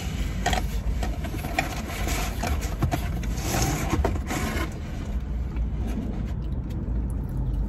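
Close-up chewing and mouth sounds of someone eating pizza, with scattered soft smacks and clicks, over a steady low rumble inside a car.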